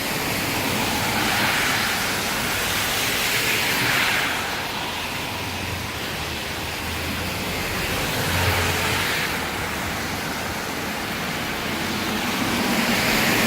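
Heavy rain pouring steadily, with cars hissing past on the wet road about three times.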